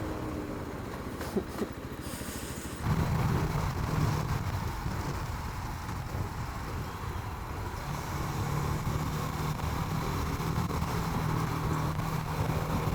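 Small Rieju motorcycle's engine running under way, with wind noise; the throttle opens about three seconds in and the engine pulls harder, settling to a steady note later on.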